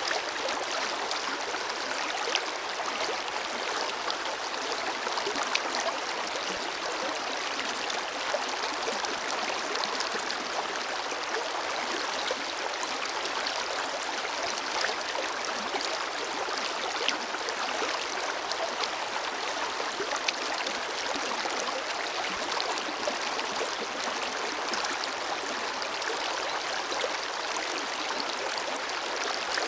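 River water flowing steadily over rocks, a continuous rushing with small splashes.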